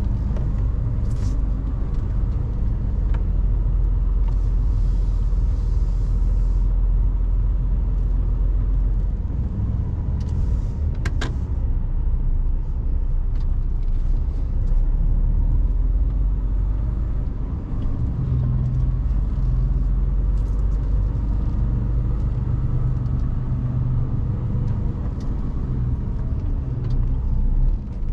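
Mercedes-Benz Actros truck driving, heard from the cab: a steady low engine and road rumble, with a few scattered clicks and a short hiss about five seconds in.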